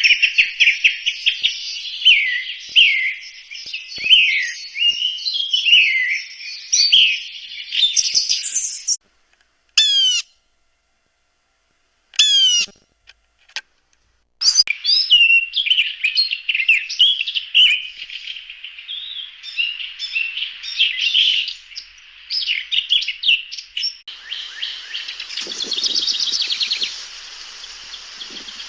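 A flock of small birds chirping and twittering in a busy chorus of quick, high notes. About a third of the way through it cuts to dead silence for a few seconds, broken only by a couple of short, fast trills, then the chirping resumes; near the end a hiss runs under it.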